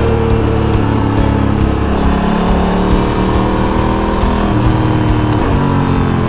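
Honda Africa Twin's parallel-twin engine running while riding, its pitch rising and falling as the revs change.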